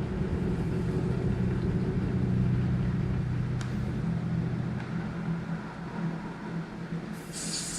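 A steady low mechanical hum and rumble, fading somewhat about five seconds in, with a hiss coming in near the end.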